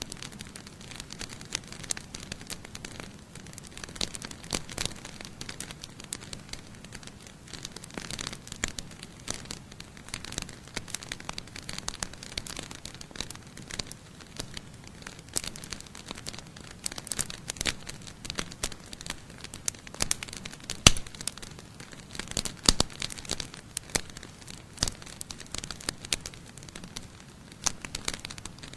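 Wood campfire burning, crackling steadily with many sharp irregular pops; the loudest pop comes about two-thirds of the way through.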